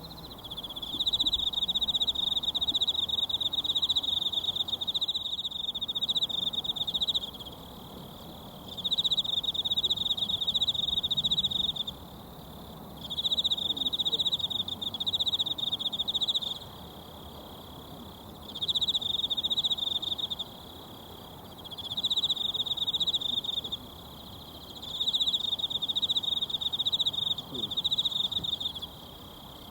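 An insect trilling shrilly in phrases of a few seconds each, broken by pauses of a second or two, over the faint steady rush of a mountain stream.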